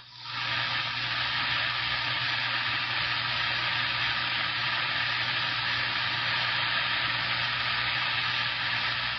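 CB radio static: a steady rushing hiss from the receiver's speaker, cutting in abruptly and dropping away near the end, as with an open squelch or a keyed carrier with no voice on it.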